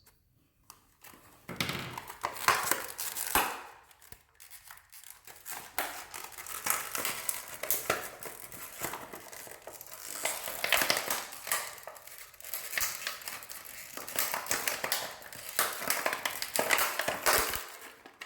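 Plastic packaging crinkling and tearing in irregular crackles and snaps as a new 1224 faucet cartridge is unwrapped by hand.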